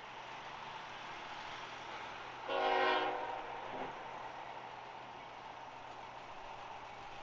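A single short locomotive horn blast, about half a second long, roughly two and a half seconds in, over a steady background rumble.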